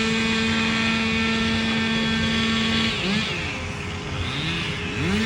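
Land-clearing machinery running at a steady high pitch. About three seconds in, the steady note breaks into dipping and rising swoops for about two seconds, then settles back to the steady note near the end.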